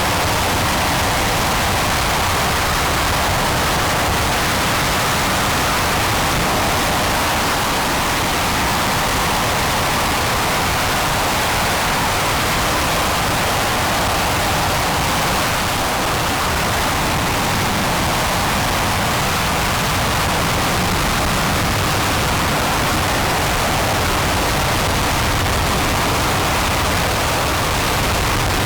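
RS-25 liquid-hydrogen/liquid-oxygen rocket engine firing steadily on the test stand during a hot-fire test: a continuous, even rush of noise that does not change.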